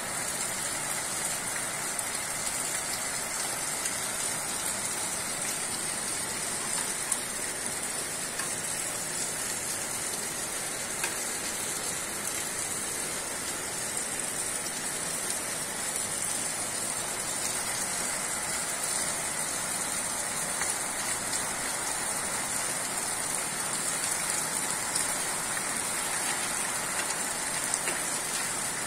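Steady heavy rain pouring down, with a few sharper drop ticks standing out now and then.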